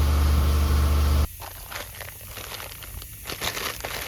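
A steady low hum cuts off abruptly about a second in, followed by light clicks and rustling as the clutch plates and springs of a Yamaha Blaster clutch are handled and pulled out by hand.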